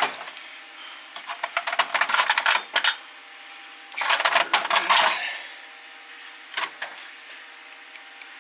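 Metal hand tools clinking and rattling against each other in two bursts, the first nearly two seconds long and the second about a second long, then a single click.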